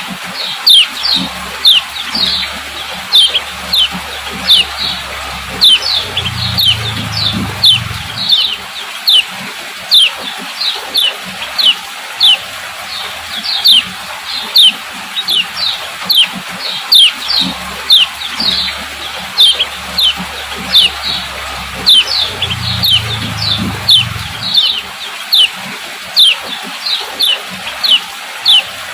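Female kecial kuning (yellow white-eye) giving a rapid, repetitive series of short, sharp 'ciak ciak' call notes, each a quick downward chirp, about two to three a second. A faint low hum comes in twice.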